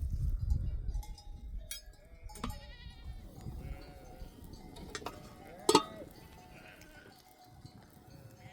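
A flock of sheep bleating now and then, with the clink of sheep bells. A short sharp sound about six seconds in is the loudest event.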